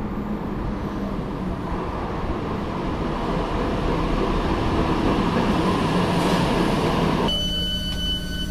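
Steady rumble of a moving train. About seven seconds in it cuts abruptly to a quieter background with a steady high-pitched tone.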